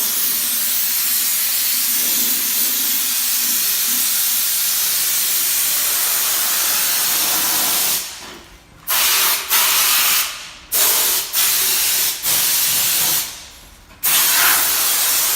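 Loud, steady hiss of rushing air. In the second half it cuts out and comes back abruptly about five times.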